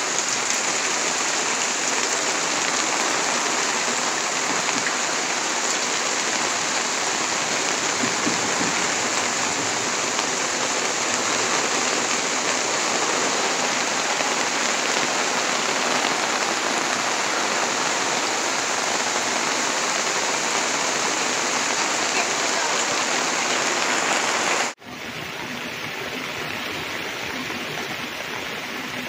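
Heavy thunderstorm rain falling steadily, heard from under a camper's awning. About 25 seconds in it cuts abruptly to quieter, lighter rain.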